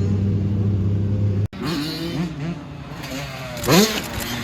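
Dirt bike engines: a steady engine drone, then after a sudden cut, engines revving up and down, with the loudest rising rev about three and a half seconds in.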